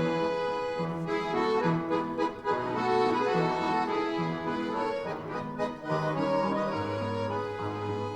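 Bayan (Russian button accordion) orchestra playing sustained chords over a bass line that moves note by note.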